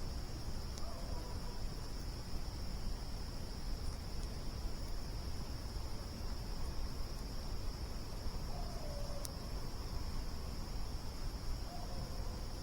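Crickets trilling in one steady, unbroken high drone over the low rumble of a campfire, with a single sharp pop from the fire about nine seconds in. Three faint, short falling calls from some animal come through, near the start, past the middle and near the end.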